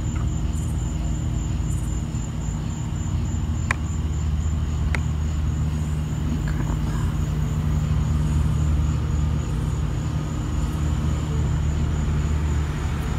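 A car's engine running nearby: a steady low rumble that slowly grows louder toward the middle and then eases off a little, with two faint clicks about four and five seconds in.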